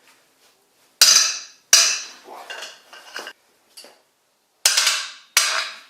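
Sharp metal-on-metal clanks from a pipe wrench with a jack-handle extension, worked round a heated head stud as it turns out of the engine case. There are four loud clanks and a fainter one, at irregular intervals, each ringing briefly.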